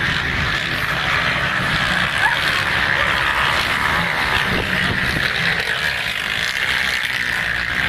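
Motocross dirt bike engines running steadily.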